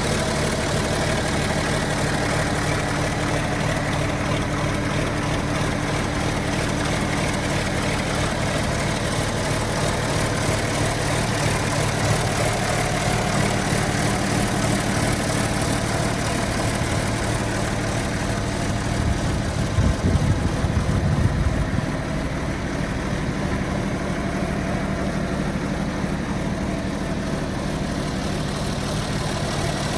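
1975 John Deere 4430 tractor's six-cylinder turbocharged diesel idling steadily, with a brief louder, rougher stretch about twenty seconds in.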